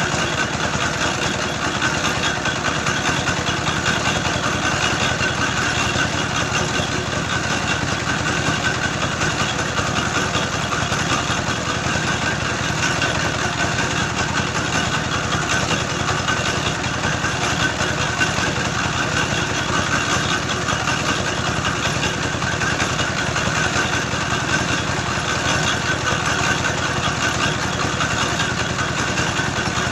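Engine-driven clay grinder for brick-making running steadily, its engine at an even, unchanging speed while it grinds soil into brick clay.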